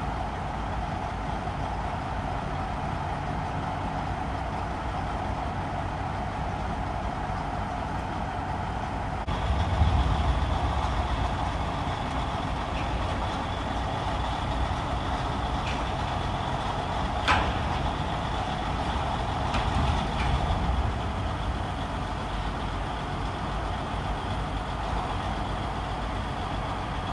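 Heavy equipment and truck engines running steadily, with a louder low rumble swelling about ten seconds in and a sharp click a few seconds later.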